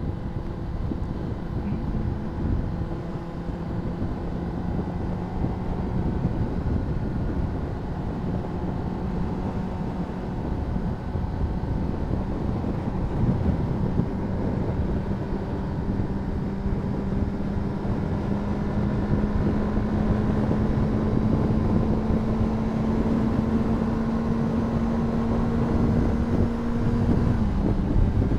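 Honda CBR600RR's inline-four engine running under steady throttle, its pitch slowly rising as the bike gains speed, then dropping suddenly near the end. Wind rushes over the microphone throughout.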